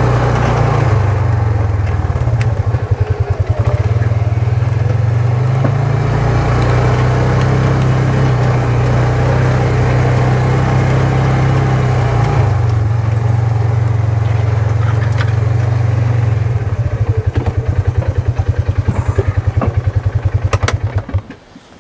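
Small off-road vehicle engine running steadily under way. Near the end it slows to a pulsing idle and then shuts off abruptly.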